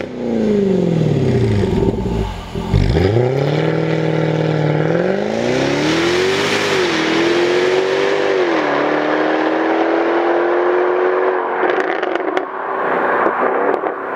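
Jaguar F-Type R's supercharged 5.0-litre V8 driven hard. The engine note falls away steeply at first, then the car accelerates through two quick upshifts and holds a steady pull. Near the end it lifts off, with crackles and pops from the exhaust on the overrun.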